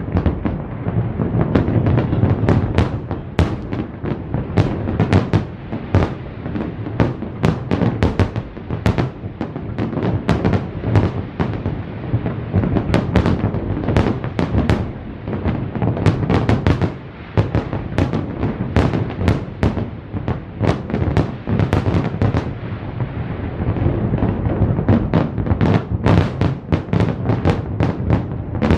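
Fireworks display going off without a break: a continuous low rumble of booms with many sharp bangs and crackles, several a second, and a brief lull about two-thirds of the way in.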